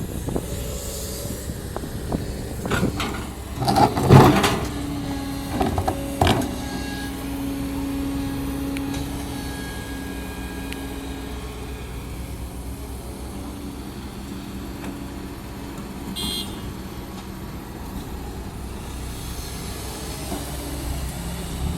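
Kobelco SK200 Gen 10 excavator's Hino J05E diesel engine running steadily while digging into hardpan. Several sharp knocks come in the first six or seven seconds, the loudest about four seconds in, and a steady hum holds for a few seconds after them.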